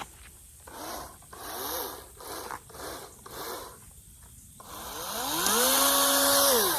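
Toro chainsaw run in several short bursts, then given one longer pull of the trigger: its motor winds up in pitch, holds steady at speed for about a second and winds down again near the end.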